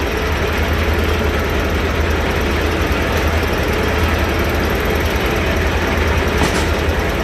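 John Deere R's two-cylinder diesel engine running steadily, powering a sawmill.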